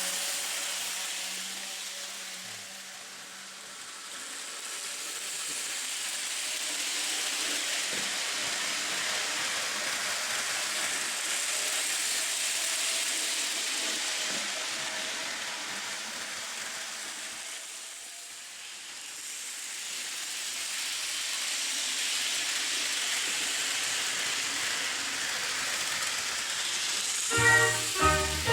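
Model train running round the layout track, a steady hissing rolling noise that swells as it passes close and fades away twice. Swing music starts near the end.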